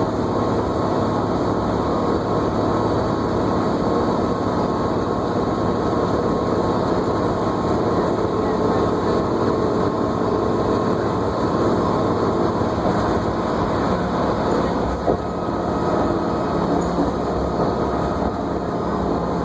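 New Flyer D40LFR diesel transit bus under way, heard from inside the cabin: a steady engine and road drone with a faint high whine held on a steady pitch. A single knock about 15 seconds in.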